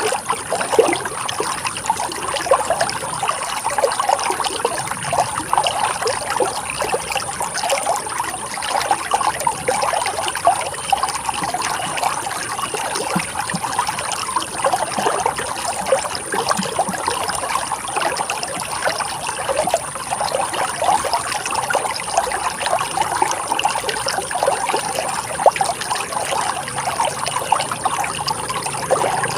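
Running water trickling and splashing steadily in a continuous babble.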